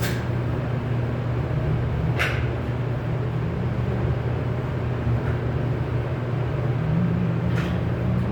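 Steady low mechanical hum, like a running engine or machine, with two brief swishing sounds, one about two seconds in and one near the end.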